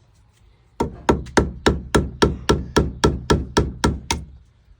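A hammer taps a small drill bit, used as a punch, about thirteen times in quick, even strokes, some four a second. This is metal on metal, driving the roll pin out of a truck's wing-window knob. The tapping starts about a second in and stops near the end.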